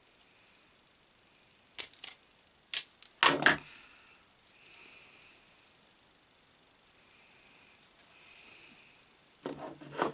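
Sharp clicks and knocks of tools and small parts being handled on a workbench during wiring work: a cluster of them about two to three and a half seconds in and another near the end, with two faint stretches of hiss in between.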